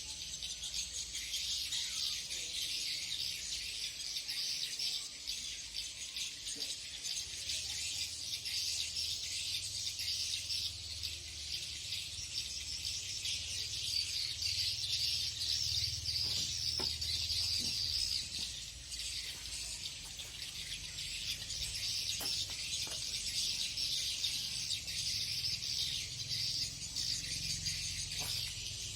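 Many swiftlets twittering together: a dense, continuous mass of rapid high-pitched chirps.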